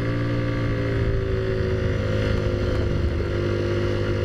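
Taotao Zummer scooter's small four-stroke engine running under way at a steady cruising speed. Its note dips slightly in pitch over the first two seconds and then holds steady.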